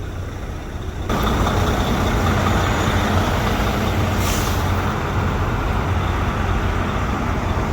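Semi-truck driving on the road: steady engine and road noise that gets suddenly louder about a second in, with a brief hiss near the middle.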